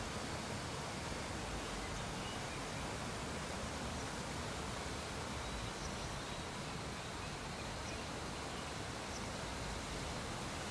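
Steady hiss of background noise, with a few faint short high chirps.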